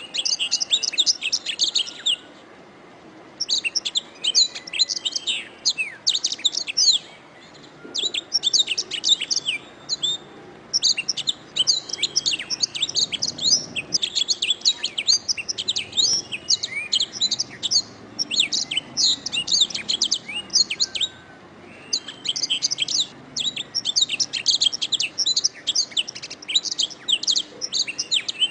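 Domestic canary singing: rapid, continuous trills and chirps in phrases of a few seconds, broken by short pauses.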